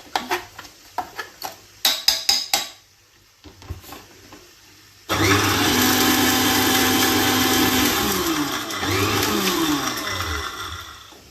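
A few clicks and knocks, then a small kitchen mixer-grinder starts suddenly about five seconds in, dry-grinding spices to a powder. It runs in pulses, its pitch falling and rising as the motor slows and speeds up, and it winds down near the end.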